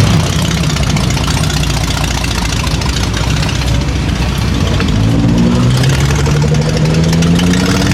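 Car engines running at a car show, a steady low rumble, with one engine's note rising slowly from about five seconds in as it speeds up.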